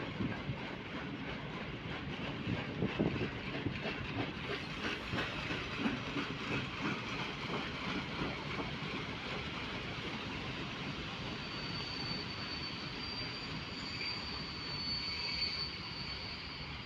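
Freight train's wagons rolling past, wheels clattering over the rail joints with irregular knocks. From about two-thirds of the way in, a thin high steady squeal of wheels on rail joins the rumble.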